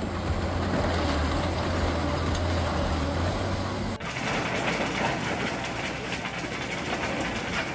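Heavy industrial machinery running with a strong steady low hum and grinding noise. About four seconds in it cuts abruptly to a different, noisier machine sound.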